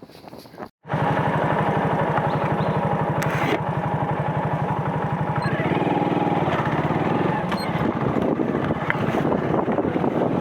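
Motorcycle engine running steadily while riding, with a fast, even firing beat. The sound cuts out for a moment just under a second in, then comes back loud and stays steady.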